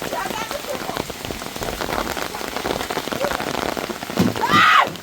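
Heavy rain pattering on a surface, dense and steady. Near the end comes a short, high, arching call, a voice-like cry.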